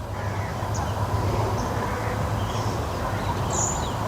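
Outdoor ambience: a steady low rumble with a few short, faint bird chirps now and then.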